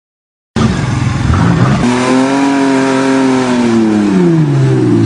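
A vehicle engine revving under load: the pitch climbs, holds, then drops away again near the end. It starts suddenly after a brief moment of silence.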